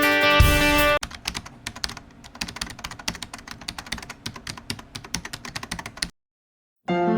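Rapid computer-keyboard typing clicks, irregular and quick, lasting about five seconds after background music cuts off about a second in. The typing stops suddenly, and after a short silence piano music starts near the end.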